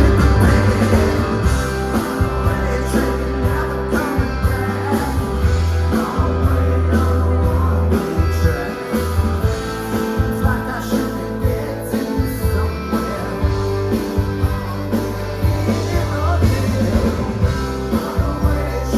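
Live rock band playing: electric guitars, bass and drums, with singing over them.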